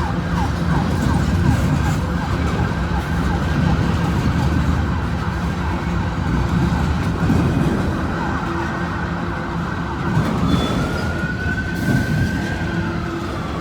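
Freight train cars rolling past with a steady rumble, while an emergency vehicle siren sounds in the background; near the end the siren gives one long wail that rises and then falls.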